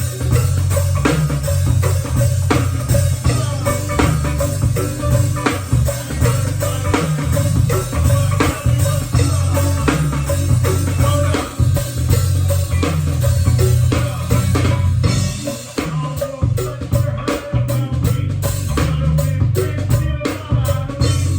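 Band music: drum kit and a heavy bass line with guitar, no singing. The drum pattern changes about sixteen seconds in.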